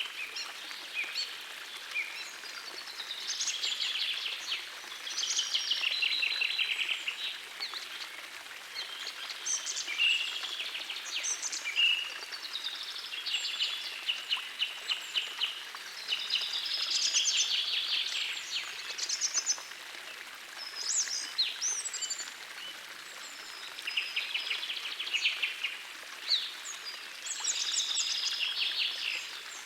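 Songbirds singing short, trilled and chirping phrases about every couple of seconds, over the faint steady rush of a gentle forest stream.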